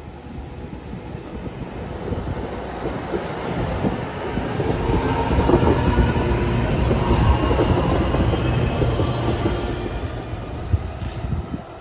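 NJ Transit Arrow III electric multiple-unit train passing close by, its wheels rumbling and clicking over the rails. The noise builds, is loudest in the middle, and falls away just before the end.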